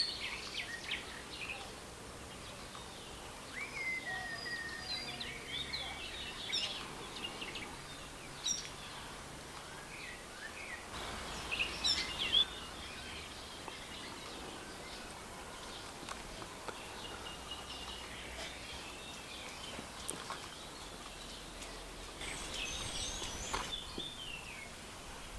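Small birds chirping and calling in short clusters of high, gliding notes over a steady outdoor background hiss.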